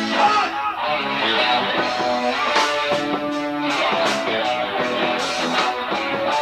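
Live rock band playing without vocals: electric guitar to the fore over bass guitar, drums and bongos, with a steady beat.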